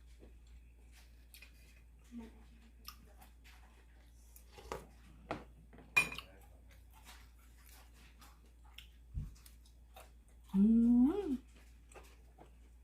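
Eating sounds: faint chewing and light clicks of cutlery against a bowl, with one sharper click about halfway. Near the end comes a short hummed voice sound, the loudest part.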